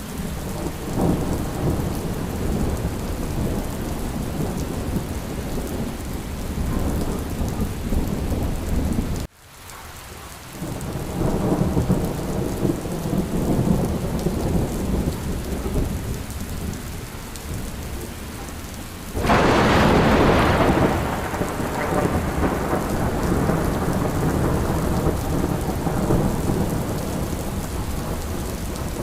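Steady rain with low rolling thunder. A sharp thunderclap breaks about two-thirds of the way through and fades over a few seconds. About a third of the way in, the sound drops away suddenly for a moment before the rain comes back.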